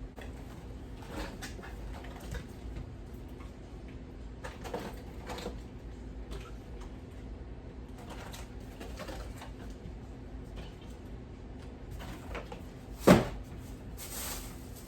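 Groceries being handled and put into a refrigerator: scattered light knocks and rustles of items, shelves and drawers, with one sharp loud knock near the end.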